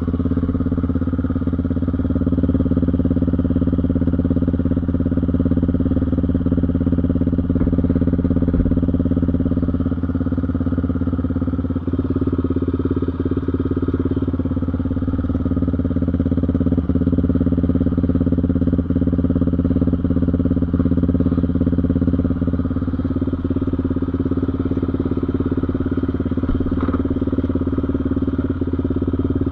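Single-cylinder off-road engine, from the dirt bike or the quad, running steadily with small rises and falls in pitch.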